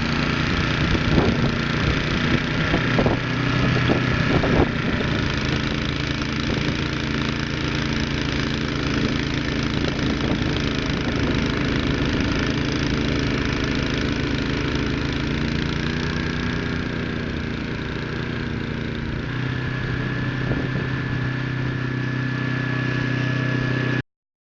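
A small engine running at a steady speed, with a few sharp knocks in the first few seconds; the sound cuts off abruptly near the end.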